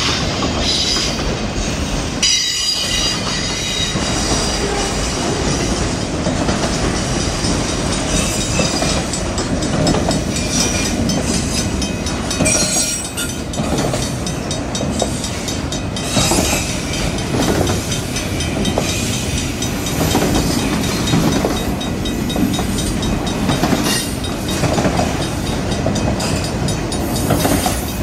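Freight train of enclosed autorack cars rolling past at close range, a steady loud rumble with repeated clattering knocks as the wheels cross rail joints.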